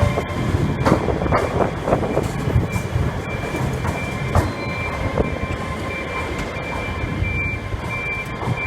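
Train moving at a station platform: a steady low rumble with scattered wheel clicks and knocks, and a high note that comes and goes.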